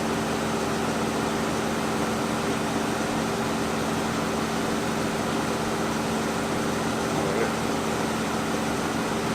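Steady hum and hiss of an idling car, with an even low drone.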